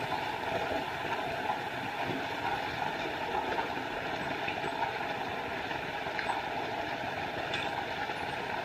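Small forest waterfall: water falling and rushing in a steady, unbroken rush.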